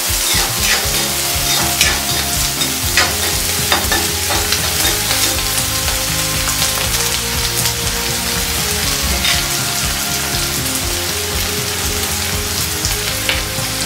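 Chopped onion and green chillies sizzling steadily in hot oil in a metal kadhai, sautéing, while a metal spoon scrapes and clicks against the pan as they are stirred, mostly in the first few seconds.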